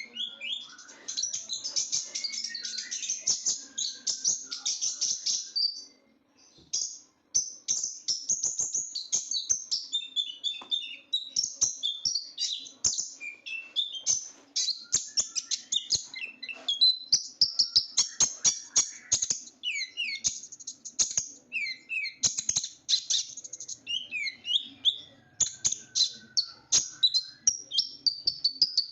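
A kolibri ninja, a small sunbird, singing vigorously: fast runs of shrill, high-pitched chirps and twittering trills, broken by a brief pause about six seconds in.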